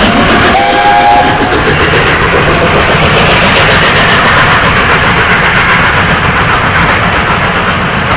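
Steam train running past close by: a loud, steady rush of noise, with a short pitched tone about half a second in.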